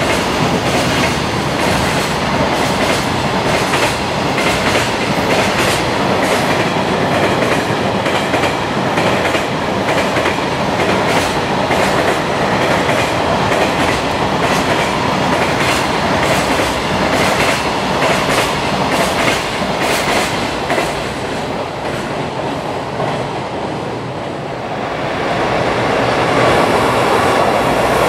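Freight train wagons' wheels running fast over the elevated slab track, with a dense rapid clatter of sharp clicks as the wheels cross the rail joints. Near the end the clatter fades a little, then a heavier rumble rises again.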